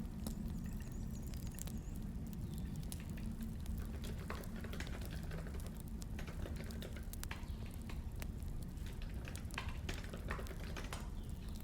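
Crackling wood fire mixed with keyboard typing: irregular sharp crackles and clicks over a low steady rumble.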